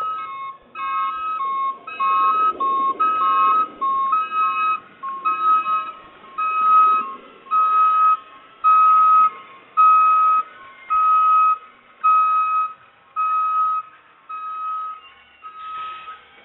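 Electronic beeping in a simple repeating pattern: two close pitches alternate at first, then settle into a single note repeated about one and a half times a second, fading near the end.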